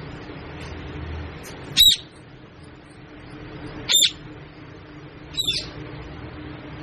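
Pet parrot squawking three times, short, loud, high-pitched calls about two seconds apart, the last one softer, over a steady low hum.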